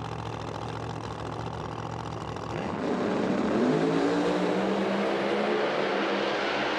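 Drag racing car engines running steadily, then about two and a half seconds in growing louder and rising in pitch as the cars launch and accelerate down the strip.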